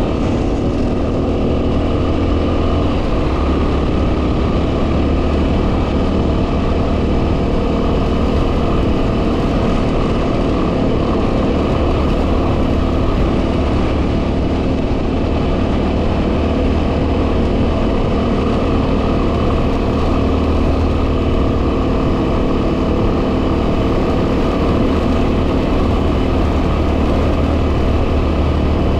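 Yamaha WR250R's single-cylinder four-stroke engine running steadily under way, with heavy wind noise buffeting the microphone.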